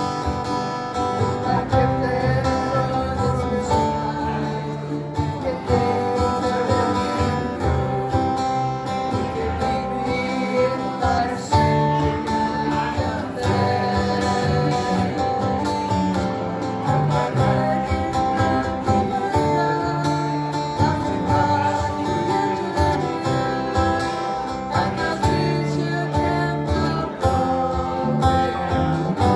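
Acoustic guitar strumming a slow country-folk song in a steady rhythm, with a held melody line over it.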